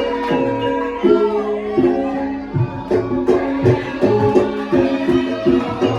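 Live Javanese gamelan music accompanying a lengger dance: pitched metal keyed instruments play a repeating melody over a steady rhythm of drum strokes.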